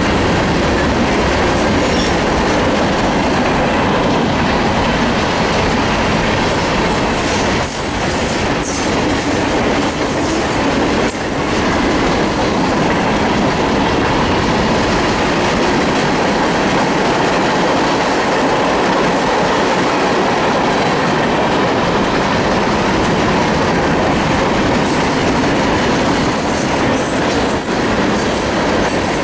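Freight cars of a manifest train rolling past at close range: a steady loud rumble and rattle of steel wheels on rail, with a few sharp clicks as wheels cross rail joints.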